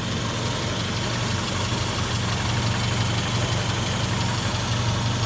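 A 1980 Mini Cooper's A-series inline-four engine idling steadily, heard close up in the open engine bay.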